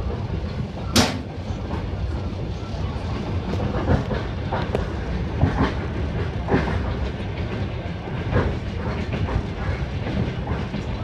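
Passenger train running, heard from inside the carriage: a steady low rumble with irregular clacks and knocks of the wheels over the rails, the sharpest about a second in.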